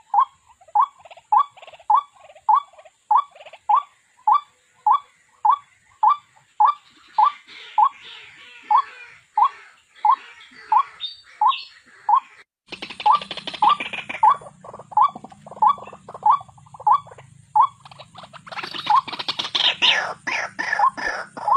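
White-breasted waterhen calling, a steady string of short 'kwok' notes about two a second, with bouts of harsher chattering mixed in. About twelve and a half seconds in the sound drops out briefly, and a low hum then runs under the calls.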